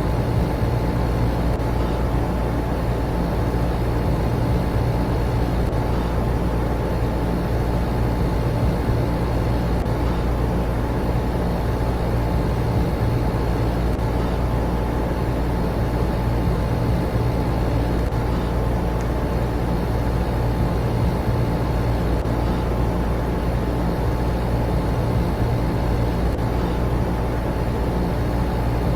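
An air conditioner and electric fans running together: a steady, unbroken whirring drone with a low hum.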